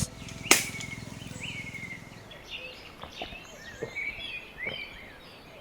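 Birds chirping and calling in the background, with a sharp click about half a second in and a low hum that fades out over the first two seconds.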